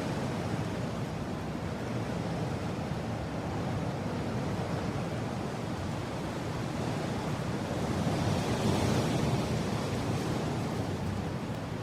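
Steady wind blowing, a deep rushing noise that swells briefly about two-thirds of the way through.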